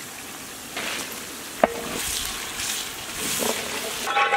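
Sliced green chillies sizzling as they fry in hot oil in a large metal pot, louder from just under a second in, while a long metal spatula stirs and scrapes, striking the pot once with a sharp clang.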